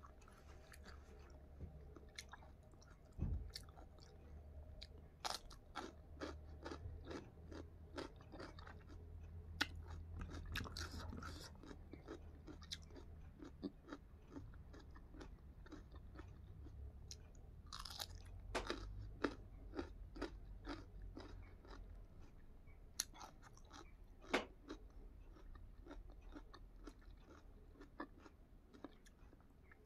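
Close-miked chewing and crunching of food, with crisp, irregular crunches of raw radish salad and soft mouth noises between bites.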